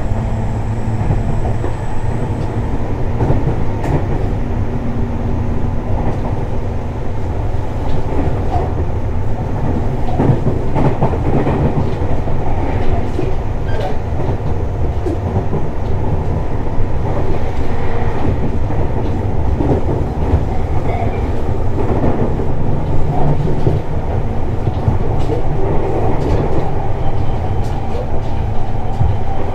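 Tobu 60000 series electric train running at speed, heard from inside the car. Steady wheel and motor rumble with scattered clicks from the rail joints, and a faint high whine in the first couple of seconds.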